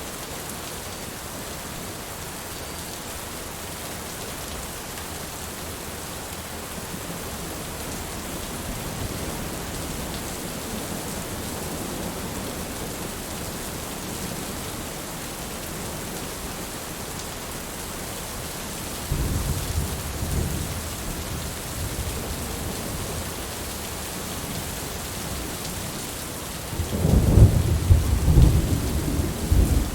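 Steady rain falling, with thunder rumbling twice: once about two-thirds of the way in and again, louder, near the end.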